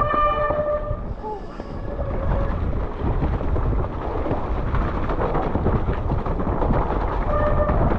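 Mountain bike riding down a rough trail: rumbling tyre and rattle noise with wind buffeting the helmet or bike-mounted camera. A steady buzzing tone drops out about a second in and returns near the end.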